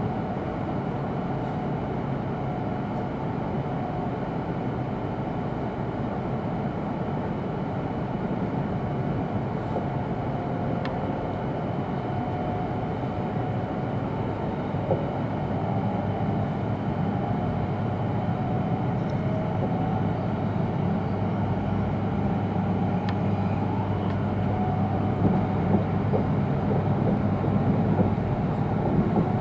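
Steady running noise of an E2 series Shinkansen heard from inside a passenger car: a continuous rumble with low hums, growing somewhat louder from about halfway through, with a few faint clicks.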